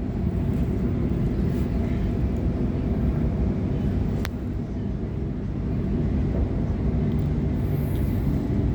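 Waratah electric multiple unit running at speed, heard from inside the carriage: a steady rumble of wheels on rail and running gear, with one sharp click about four seconds in.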